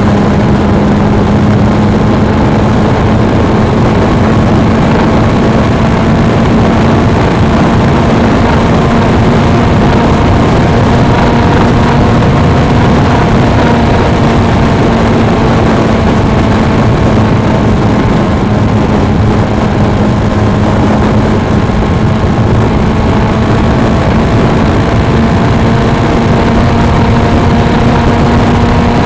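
Suzuki V-Strom 250's parallel-twin engine running at a steady cruising pace, its pitch drifting only slightly, under heavy wind and road noise on the microphone.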